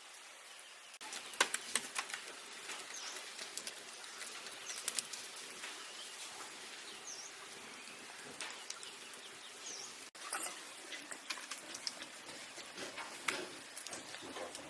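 Steady rain-like hiss for about a second, then irregular light clicks and knocks with a few short, high bird chirps scattered through.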